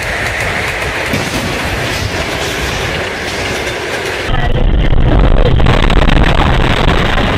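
A passenger train passing a level crossing, a steady rushing rumble heard through a car's dashcam. About four seconds in, a louder, deeper rumble with rattling clatter takes over.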